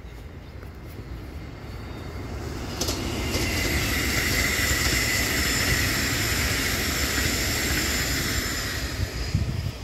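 Electric suburban train passing at speed: wheel and rail noise grows over the first few seconds, is loudest while the carriages go by, and drops away near the end.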